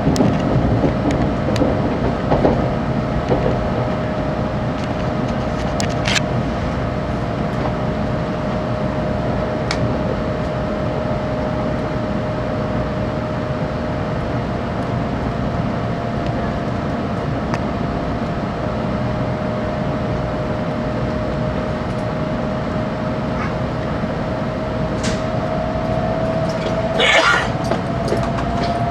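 Running noise inside a 700-series Hikari Rail Star shinkansen car at speed: a steady rumble of wheels and rushing air with one constant whine that rises slightly near the end. Near the end comes a brief sharp rush of noise.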